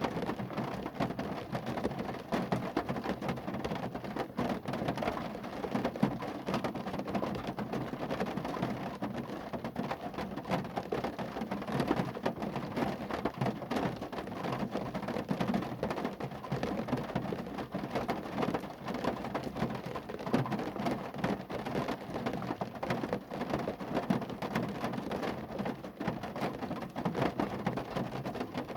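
Rain falling steadily on a car, a dense, even patter of countless drops striking the car's body.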